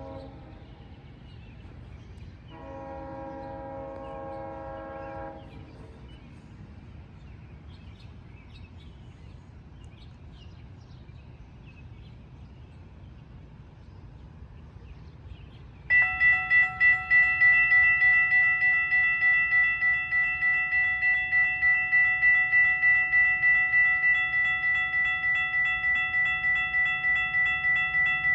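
Diesel locomotive air horn sounding one chord about three seconds in. Then, from a little past halfway, a level crossing warning bell rings loudly in a fast, even pulse and keeps going.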